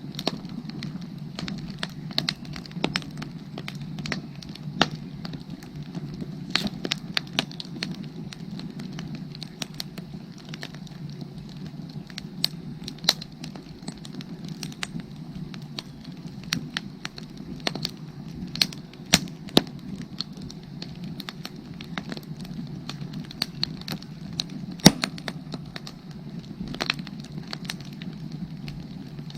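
Firewood burning, crackling steadily with irregular sharp pops; the loudest pop comes near the end. A steady frog chorus runs underneath.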